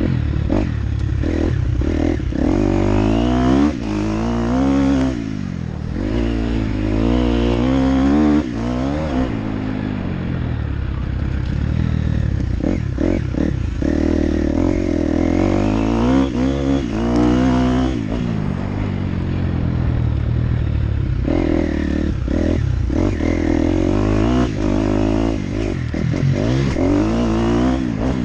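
Motocross dirt bike engine being ridden hard, revving up and dropping back over and over, with short clattering knocks scattered throughout.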